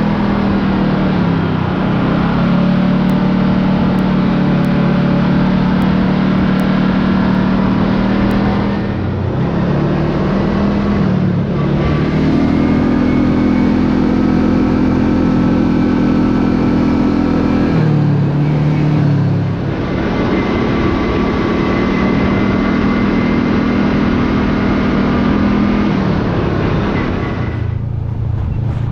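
Side-by-side UTV engine running at a steady cruising speed, its pitch dipping and picking back up a few times as it slows and speeds up, and dropping lower near the end.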